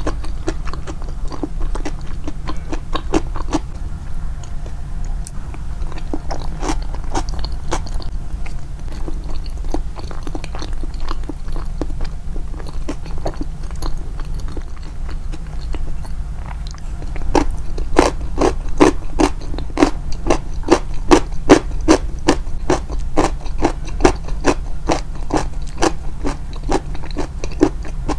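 Close-up crunchy chewing of nukazuke, rice-bran pickled vegetables, a long run of crisp crunches. About two-thirds of the way through the crunching becomes faster and louder, at roughly three crunches a second.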